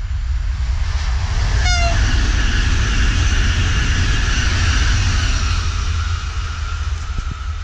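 PKP Intercity ED250 Pendolino high-speed electric train passing at speed. A rush of wheel and air noise swells, holds for several seconds and then eases, with a high whine that drops slightly in pitch as the train draws away. A brief shrill tone comes about two seconds in, and wind rumbles on the microphone throughout.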